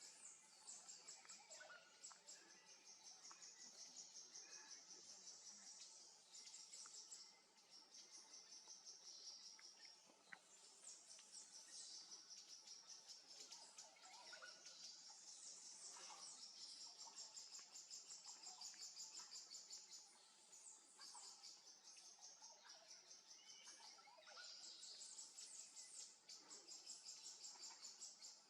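Faint forest ambience: insects trilling high and fast in runs of a few seconds each, with short gaps between, and a few faint bird calls underneath.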